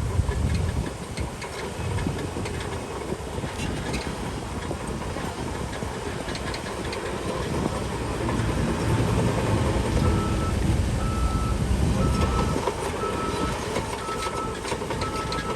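Heavy diesel earthmoving machinery working, with a low engine rumble and irregular metallic clanking. About ten seconds in, a reversing alarm starts beeping about once a second.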